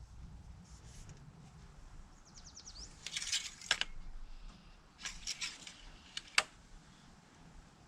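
Engine oil dipstick being handled: short bouts of scraping and rustling, a quick run of small ticks, and two sharp clicks near the end.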